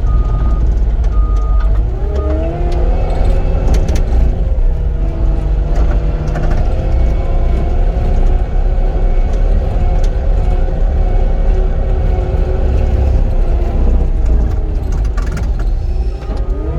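Cat 259D compact track loader's diesel engine running steadily under working load. Its reversing alarm beeps for the first couple of seconds, then the engine revs climb. Near the end the revs dip briefly and rise again.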